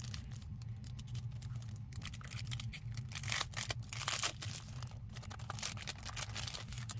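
Paper and packaging rustling and crinkling as an envelope is torn open and its contents are pulled out. The rustles are short and uneven, busiest and loudest about three to four and a half seconds in, over a low steady hum.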